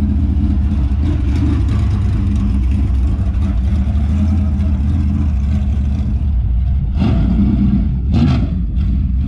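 Dirt super late model race car's V8 engine running steadily at low speed while the car is driven slowly.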